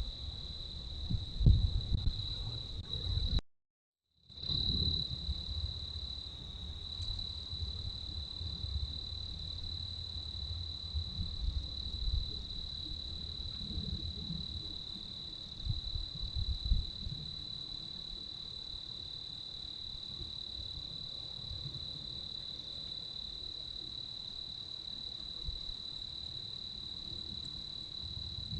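An insect trills in one steady, unbroken high-pitched note, over the low, gusty rumble of wind on the microphone. The sound cuts out completely for about a second, a few seconds in.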